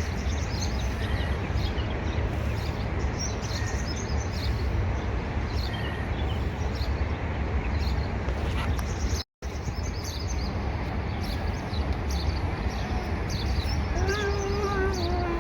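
Small birds chirping over and over above a steady low outdoor rumble. The sound cuts out briefly partway through, and near the end a drawn-out tone slides slowly downward.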